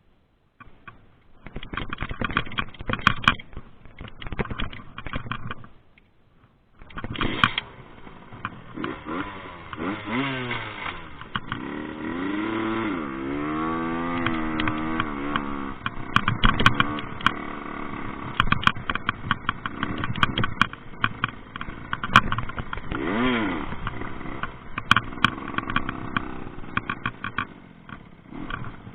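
Small two-stroke engine of a Rieju MRT 50 dirt bike revving up and down while ridden, its pitch rising and falling again and again, with a brief drop in sound about six seconds in. Sharp knocks and rattles now and then over the engine.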